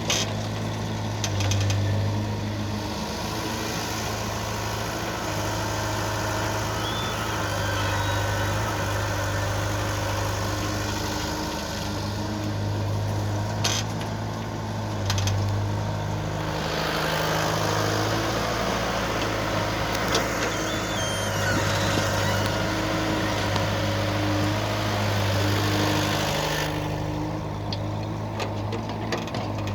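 Diesel engines of JCB 3DX backhoe loaders running, the low engine note swelling and easing every few seconds as they work, with a few sharp clanks in the middle.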